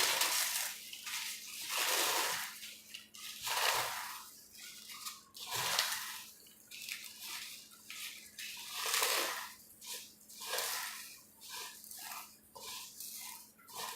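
Fried papad being crushed by hand: irregular bursts of crisp crackling and crunching, spaced out at first and coming in quicker, smaller crunches later.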